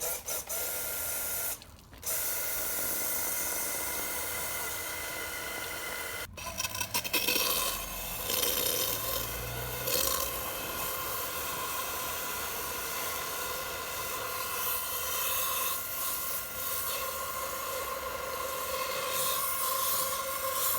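High-pressure washer running and spraying, a steady hiss with a fixed whine, cut off briefly about two seconds in and again around six seconds.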